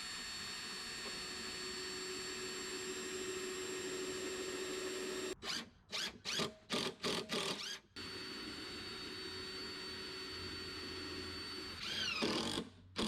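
Cordless drill running steadily for several seconds at a time, broken in the middle by a string of short, chopped-off bursts with silent gaps between them.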